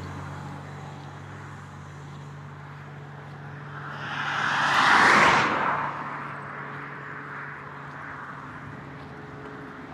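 A motor vehicle passing close by on the road: its sound swells to a peak about five seconds in, then fades away, over a steady low engine hum.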